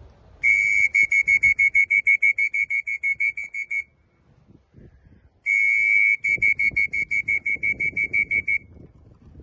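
Electronic beeping, loud and high-pitched: two runs, each a short steady tone breaking into rapid, evenly spaced beeps about five a second, the second run starting about five seconds in.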